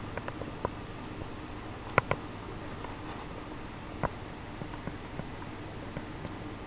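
A few faint, scattered clicks and taps over a steady background hiss, with a sharper double click about two seconds in and another click about four seconds in.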